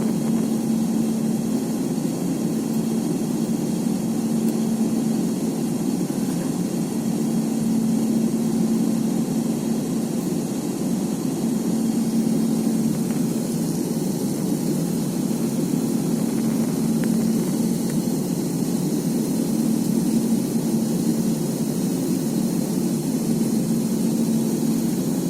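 Airbus A350-900 jet engines (Rolls-Royce Trent XWB) and airflow in flight after takeoff: a steady, even drone with a constant low hum that does not rise or fade.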